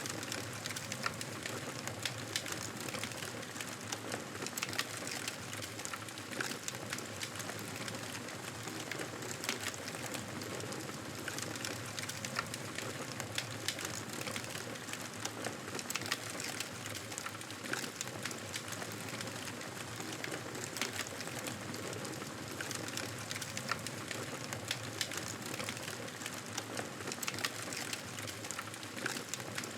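Wood fire crackling steadily, with a constant soft hiss and frequent small sharp pops and snaps.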